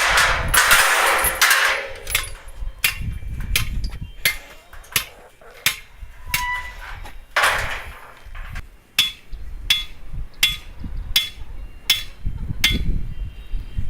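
Hammer blows struck at a steady pace, about one every two-thirds of a second, some with a faint short ring. A rush of rustling noise comes first and again about halfway through.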